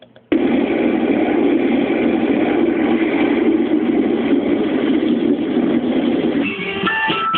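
Loud, steady rain noise that cuts in abruptly and holds without change. Music starts about a second before the end.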